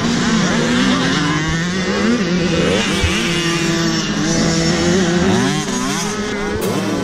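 Several motocross bikes racing together, their engines revving with overlapping pitches that rise and fall through gear changes.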